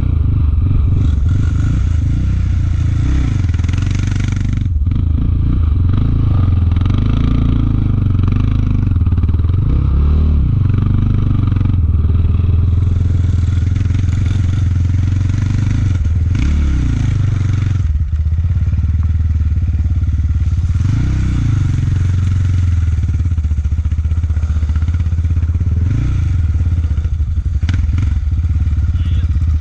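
Sport ATVs' 686cc single-cylinder engines running under load, revving up and dropping back again and again as the quads are ridden.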